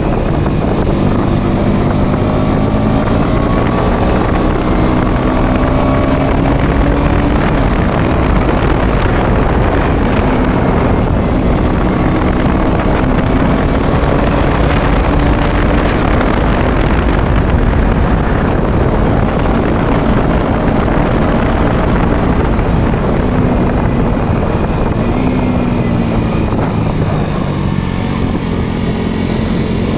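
Motorcycle engine running while under way, its pitch slowly rising and falling with speed, over a steady rush of wind and road noise on the microphone.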